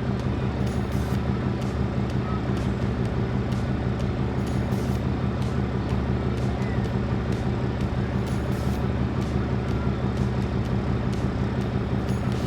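Large truck engine running steadily at an even idle, with a few faint clicks.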